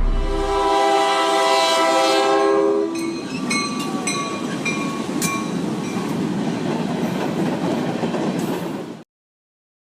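Train horn blowing a steady chord for about three seconds, followed by the clatter of the train running past the crossing, with a few sharp clanks and short squeals. The sound cuts off suddenly near the end.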